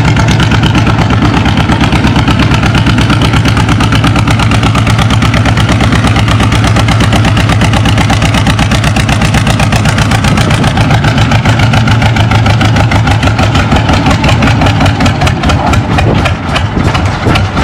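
John Deere D tractor's two-cylinder engine pulling hard under load, its evenly spaced exhaust beats running steadily and growing slower and more uneven near the end.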